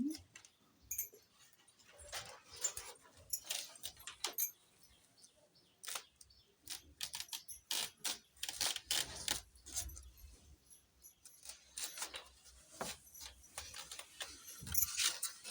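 Keys jangling and clicking as they are handled, a run of irregular short metallic rattles and clicks.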